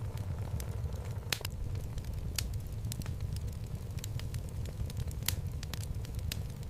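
Wood fire burning in a fireplace: a steady low rumble of the flames with irregular sharp crackles and pops from the logs, the loudest pops about one and a half seconds in, near two and a half seconds, and a little after five seconds.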